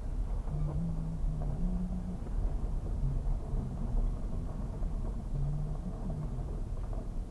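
Car driving along: a steady low road and engine rumble, with a low hum that comes and goes.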